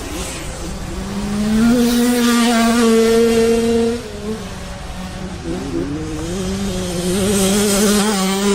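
Off-road race engine revving up and held at high revs for a couple of seconds, dropping off about four seconds in, then revving up and holding high again toward the end.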